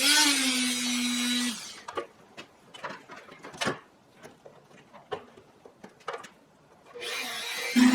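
Electric power tool running with a steady hum, switched off about a second and a half in. A few light knocks and clicks follow, then it starts up again near the end.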